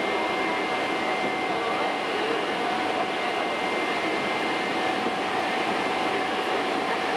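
Hankyu Kyo-train electric train running steadily, heard from inside the front car: an even rumble of wheels and running gear with a faint steady whine over it.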